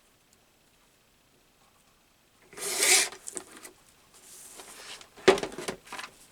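Paper being handled and rubbed on a craft table: a loud rustle about halfway through, a softer rustle, then a sharp tap and a few short scuffs near the end.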